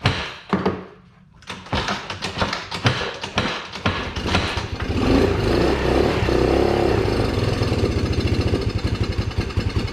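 A Can-Am's engine, water-logged from a swim, cranking and sputtering unevenly, then catching and running with a fast, steady beat for about four seconds on a shot of starting fluid before dying near the end.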